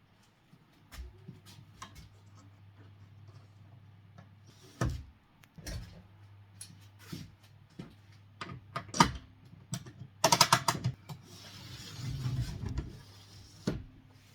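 Hard parts being handled: scattered sharp clicks and knocks, a quick rattle of clicks about ten seconds in, and a rubbing slide a little later, over a steady low hum.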